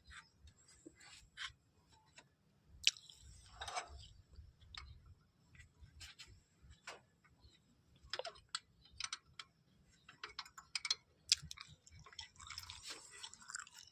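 Irregular light clicks, taps and clinks of hand tools and small metal parts being handled during carburetor work, with a short stretch of scraping near the end.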